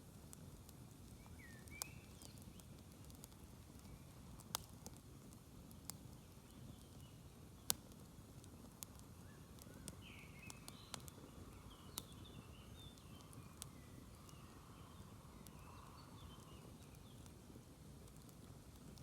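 Campfire burning quietly: scattered sharp pops and crackles from the wood, about ten in all, over a faint low rumble.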